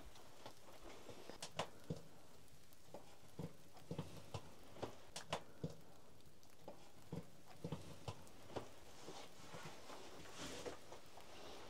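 Scattered light knocks and clicks at an irregular pace, a dozen or more short taps, against a quiet room.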